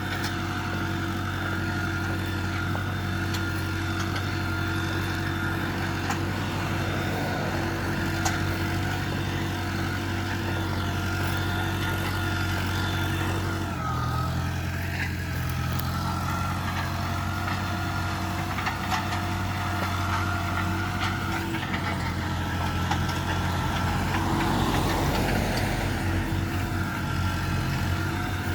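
Farm tractor engine running steadily, its note shifting about halfway through and again near the end.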